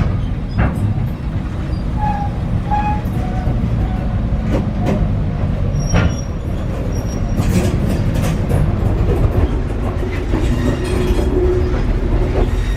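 A railroad caboose rolling along the track, heard from on board: a steady low rumble with scattered clicks from the rails, and two brief high wheel squeals about two seconds in.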